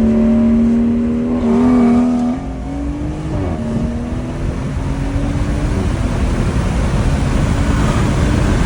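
Tuned BMW 340i's turbocharged straight-six, fitted with anti-lag, held at a steady high rev with a droning note for about two seconds. The revs then drop and wobble, and the engine carries on with a rough, crackly rumble.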